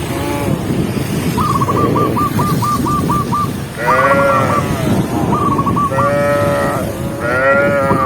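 Cattle in a herd calling: drawn-out moos of about a second each, one about four seconds in and two more between six and seven and a half seconds, over a continuous low noise of the herd. A short, repeated trilling call sounds several times alongside.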